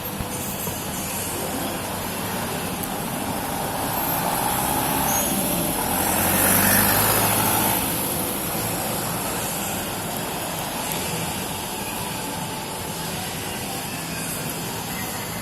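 Street traffic noise, with a heavy vehicle such as a truck or bus passing, getting louder and loudest about seven seconds in before fading back to the steady road noise.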